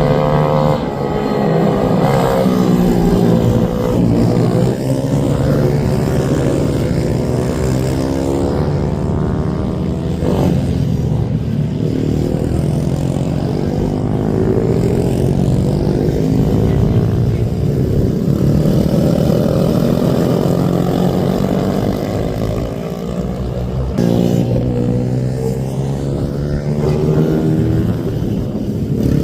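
Several racing minibike engines on track, revving high and changing pitch as they pass one another and accelerate out of corners, their whines overlapping throughout.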